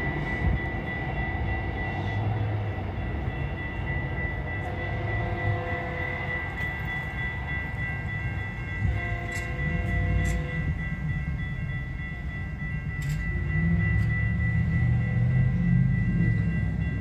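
Metrolink commuter train running away down the track, a low rumble with a steady high-pitched tone that carries along the rails.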